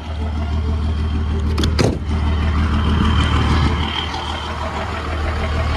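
Truck engine running steadily at idle, with a couple of sharp metallic knocks about two seconds in.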